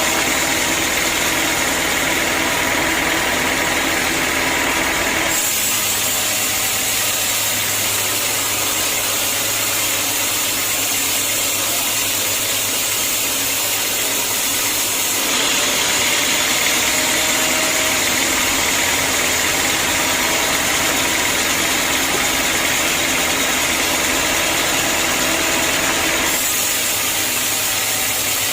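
Sawmill machinery running steadily, its sound changing abruptly about five, fifteen and twenty-six seconds in.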